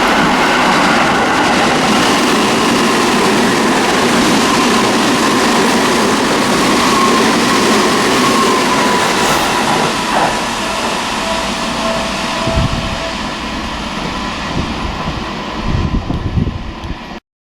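Seibu Railway commuter train passing through a station at speed without stopping: loud rolling wheel-on-rail noise with a steady high whine. The noise thins out in the last few seconds, then cuts off abruptly near the end.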